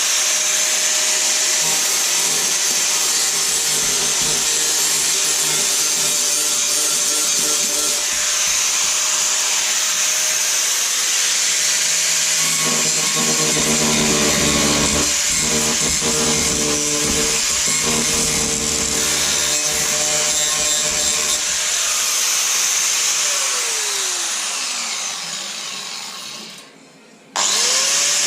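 Angle grinder grinding down welds on a steel door panel, running steadily with a shifting whine as the disc works the metal. Near the end it winds down with a falling pitch, then starts up again abruptly.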